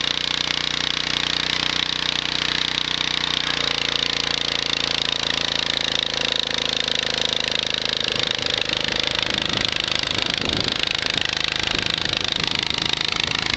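Garden tractor engine running steadily under load while pulling a moldboard plow through the soil. Its pitch wavers in the second half as the load changes.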